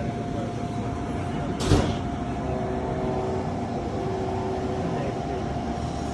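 Amtrak P42DC diesel locomotive running as the train departs: a steady low rumble with a few steady tones, broken by one short, sharp knock a little under two seconds in.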